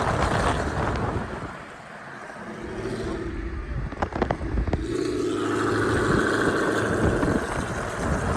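Car engine and road noise heard from inside a moving car with the windows up, dipping briefly about two seconds in and rising to a steady engine drone in the second half, with a few sharp clicks about four seconds in.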